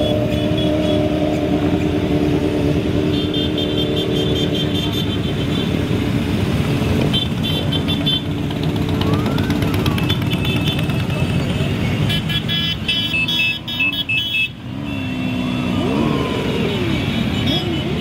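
A large group of motorcycles riding past in a parade, their engines running steadily, with revs rising and falling in the second half.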